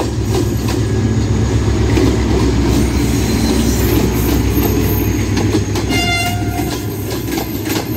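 HGMU-30R diesel-electric locomotive passing close by, its engine running loud and steady, followed by the coaches' wheels clattering over the rail joints. A short horn blast sounds about six seconds in.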